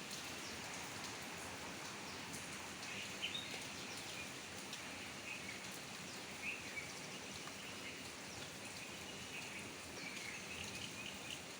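Steady rain falling, with scattered drop taps and short bird chirps now and then.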